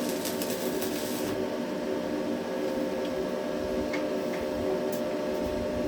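Stick-welding arc crackling and sizzling as a Hilco electrode burns, breaking off about a second in. After that a steady electrical hum continues, with a few faint ticks.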